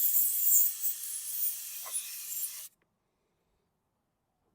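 An uneven high hiss with light clicks and scraping as a carburetor float bowl is cleaned out. The sound cuts off abruptly to dead silence about two and a half seconds in.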